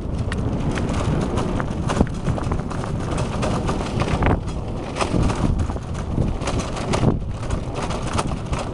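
Bicycle rattling and knocking over rough, broken pavement, its wheels striking bumps again and again, with wind buffeting the microphone. The sharpest knocks come about 2, 5 and 7 seconds in.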